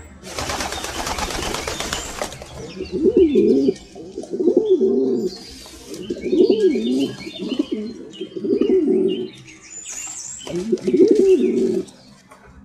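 A flock of feral rock pigeons cooing: five or six low, rising-and-falling coos, with short high chirps in between. The first two seconds or so are a rushing noise before the cooing begins.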